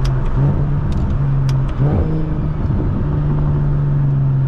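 Straight-piped single-turbo BMW 335is N54 straight-six running at steady revs while driving, its note dipping briefly about half a second in and again about two seconds in, with a few sharp clicks.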